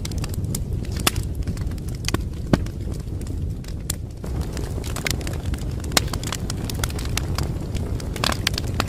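Wood fire crackling, with frequent irregular sharp pops over a steady low rumble of flames.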